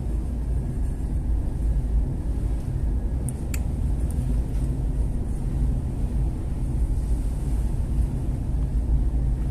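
Ship's engine running steadily, a constant low drone with a few fixed low tones. Two faint ticks a little past three seconds in.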